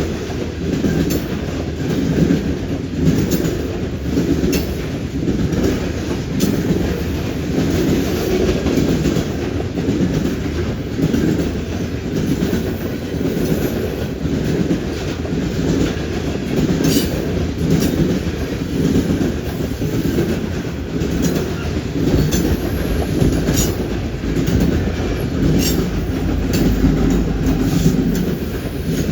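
Freight cars of a long freight train rolling past, with a steady rumble and the wheels clacking repeatedly over rail joints and the junction switch.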